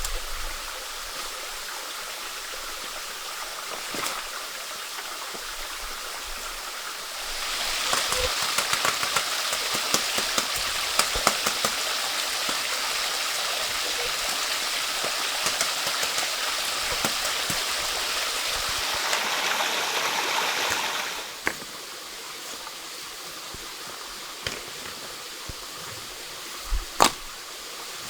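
Water running steadily, like a stream. It grows louder and brighter, with many small clicks and splashes, from about seven seconds in until about twenty-one seconds, then settles back. A few sharp knocks come near the end.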